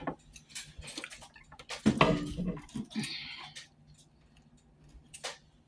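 Close-miked eating sounds: chewing and wet lip smacks coming as scattered short clicks, with a louder cluster about two seconds in.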